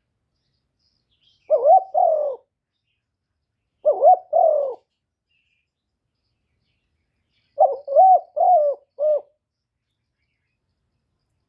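Spotted dove cooing: two short two-note coos, then a longer phrase of four coos near the end, each note bending up and down in pitch.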